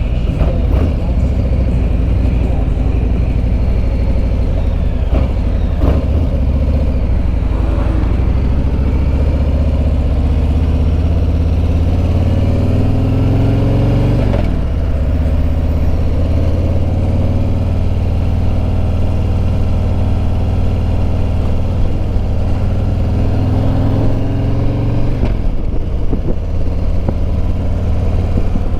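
The Milwaukee-Eight 114 V-twin of a 2021 Harley-Davidson Road Glide Limited running at road speed under steady wind noise. Its pitch climbs as it pulls and then drops suddenly at an upshift, twice: about halfway through and again near the end.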